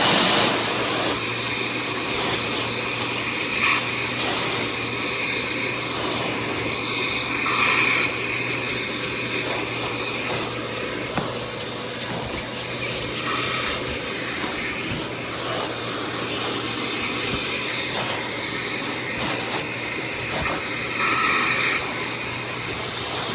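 Bissell CleanView Compact upright vacuum running steadily with a high motor whine, vacuuming couch upholstery. Its airflow note shifts now and then as the nozzle moves over the fabric.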